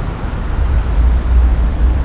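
Wind buffeting the microphone in a deep, uneven rumble, over a steady outdoor hiss.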